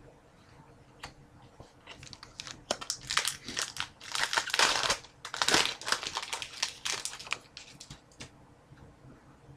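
Plastic-foil wrapper of a trading-card pack crinkling as it is opened and crumpled by hand: a run of rustling crinkles starting about two seconds in, loudest in the middle and dying away near the end.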